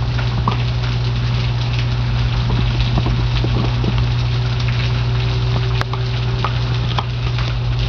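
Rain pattering steadily during a thunderstorm, with scattered small drip ticks, over a steady low hum.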